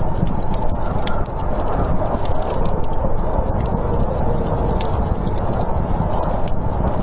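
Wood fire crackling, with frequent irregular sharp pops and snaps over a steady low rush of storm wind.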